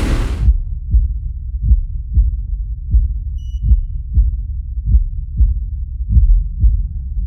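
A slow, deep heartbeat: low thumps in lub-dub pairs, about one pair every second and a quarter. A loud rushing noise cuts off just as it begins.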